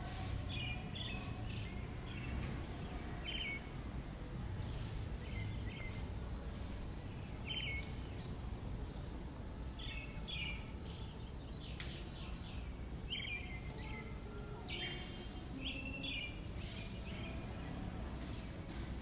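Small birds chirping in short repeated calls over a steady low background rumble, with brief hissing strokes every second or two.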